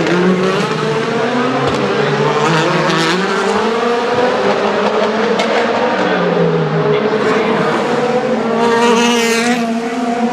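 Several DTM touring cars' V8 engines running at once at race speed, their notes overlapping and shifting in pitch as they pass. One car goes by close about nine seconds in, with a falling note.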